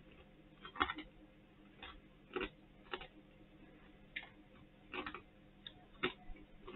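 Faint crunching of crispy seasoned pork scratchings being chewed: a dozen or so short, irregular crunches.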